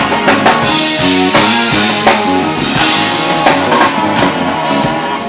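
Live band playing an instrumental intro: drum kit with kick and snare or rimshot hits, bass and guitar under held keyboard chords.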